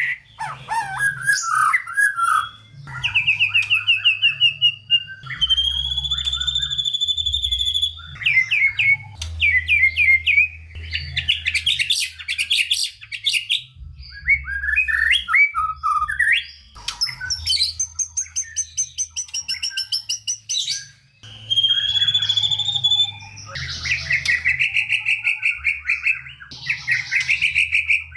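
White-rumped shama (murai batu) singing a long, varied song packed with mimicked phrases: rapid repeated notes, trills, clear whistles and chatters, delivered in bursts with short pauses.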